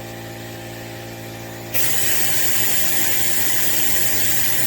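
A steady low hum, then about two seconds in a loud, steady hiss of compressed air starts suddenly as the air-powered brake vacuum bleeder is turned on; it is pulling only weak vacuum at the bleeder screw.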